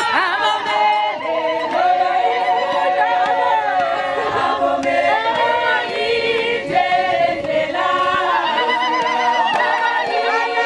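A group of voices singing together unaccompanied, several parts at once with held, wavering notes.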